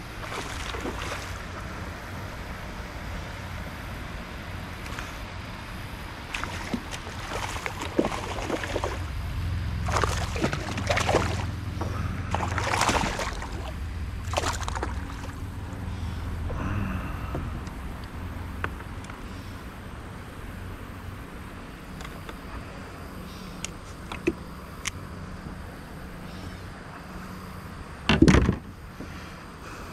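Shallow river water sloshing and gurgling around a wading angler and kayak, with scattered splashes and knocks in the first half. A single loud bump near the end.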